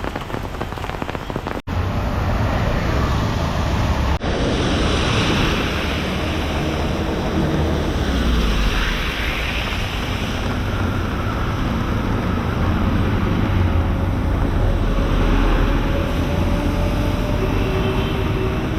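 Steady wash of rain and city traffic noise with a low rumble and wind buffeting the microphone. The sound drops out abruptly twice in the first few seconds, and a faint engine tone slowly glides down later on.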